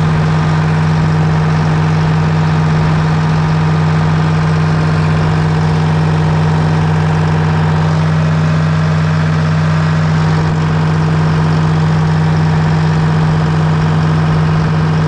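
1978 Hein-Werner excavator's diesel engine running at a steady speed, with a constant low drone that holds even throughout.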